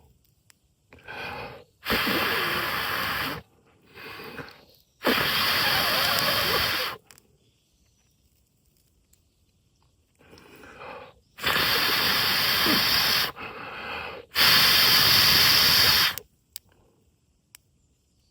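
A person blowing hard on a smouldering ember in tinder to coax it into flame after a flint-and-steel strike. There are four long blows of about two seconds each, in two pairs, and each one follows a quick breath in.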